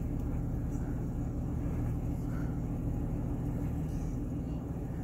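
Off-road vehicle's engine idling steadily, heard from inside the cab, its low drone holding one even pitch throughout.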